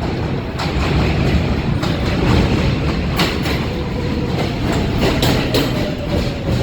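New York City subway train on the elevated BMT Jamaica Line, running with a steady rumble and irregular wheel clacks over the rail joints. A faint whine, falling slightly, comes in near the end.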